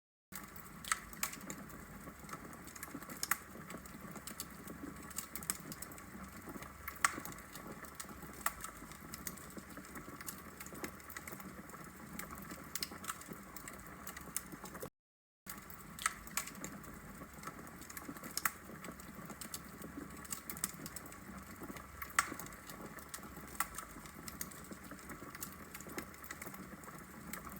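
Wood fire burning in a fireplace: irregular sharp crackles and pops over a soft steady hiss. The sound drops out for a split second about fifteen seconds in.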